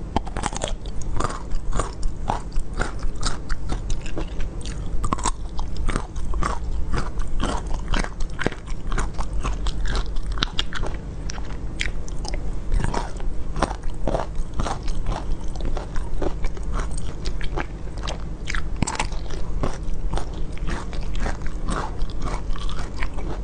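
Close-miked eating: a person biting into and chewing small peach-shaped sweets, with many sharp crackling clicks from the mouth and a steady low hum underneath.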